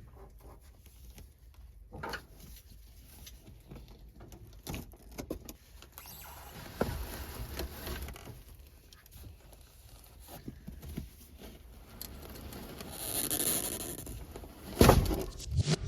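Scattered light scrapes, taps and clicks of carpet being worked loose and pulled up from a van floor, with a louder rasping stretch about 13 seconds in and a heavy knock near the end.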